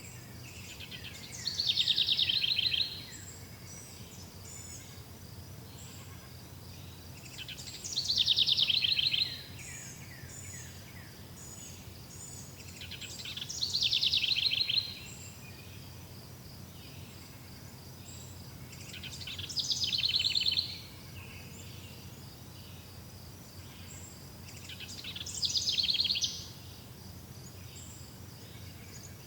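A forest bird repeating the same song phrase five times, about every six seconds. Each phrase is a rapid trill of notes that swells in loudness, slides down in pitch and stops abruptly. A faint, steady high chirring of insects continues underneath.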